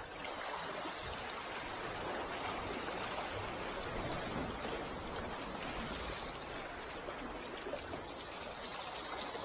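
Steady wash of water, an even rushing noise, with a few faint ticks.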